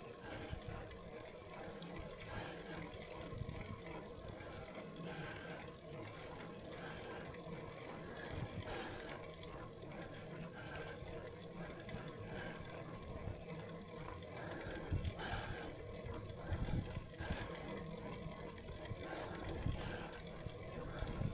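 Wind rumbling on the microphone of a bicycle climbing a steep road, with short hissing sounds recurring every second or two.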